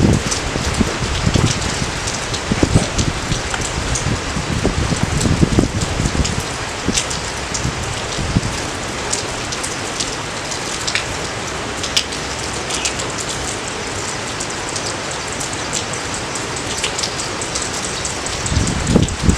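Steady rain falling, a dense hiss with individual drops ticking sharply through it.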